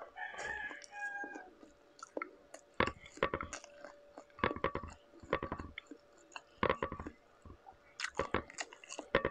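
Close-up mouth sounds of chewing a mouthful of buttered garlic shrimp and rice: wet smacking clicks in short clusters, separated by quieter pauses.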